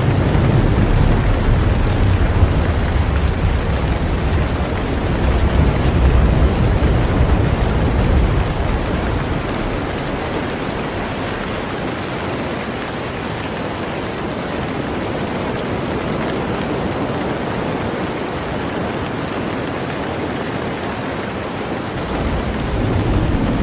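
Heavy rain falling steadily on a boat, a dense, even hiss. A deep low rumble sits under the rain for the first eight seconds or so, dies away, and returns near the end.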